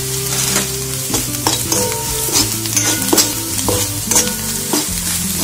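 Onion, green chilli and spice masala sizzling in hot oil in an aluminium kadai while a metal spoon stirs and scrapes it, with frequent sharp clicks of the spoon against the pan.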